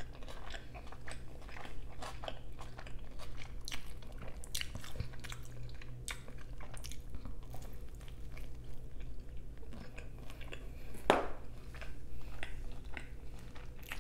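Close-miked chewing and biting of a shrimp-and-cheese pizza slice: many short wet mouth clicks and crunches of crust, with one louder crunching bite about three-quarters of the way through.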